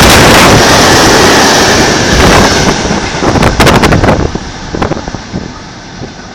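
Military freight train passing close by at speed: loud rushing wheel-and-rail noise with the train's draught buffeting the microphone, a quick run of sharp clacks of wheels over rail joints about three seconds in, then the noise falls away steeply as the train draws off.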